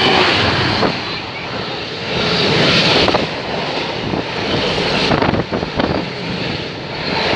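Class 66 diesel locomotive, with its two-stroke V12 engine thrashing under power, hauling a Freightliner container train past at speed. The engine note runs continuously, with the clatter of the wagons going by.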